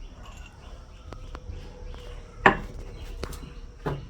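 A handful of sharp knocks or taps, hard objects being handled or struck, with one much louder knock about halfway through, over a low steady background hum.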